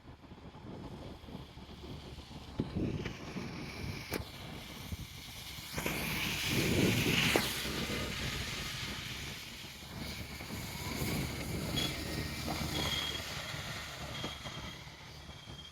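A vehicle passing by, building to its loudest about six to eight seconds in and then fading, with a few short high tones near the end.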